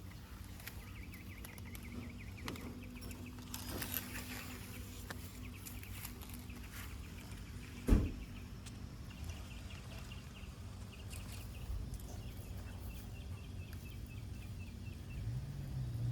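Quiet outdoor garden ambience with faint rapid trilling calls, heard early and again in the second half, and a single sharp knock about halfway through.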